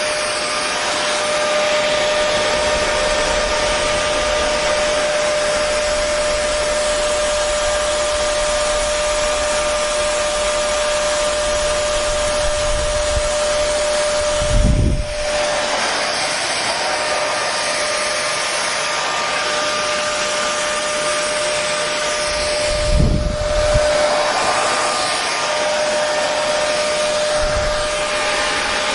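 Hair dryer running steadily: a constant rush of blown air with a steady motor whine. About halfway through and again about three-quarters through, the whine breaks off briefly with a low thump.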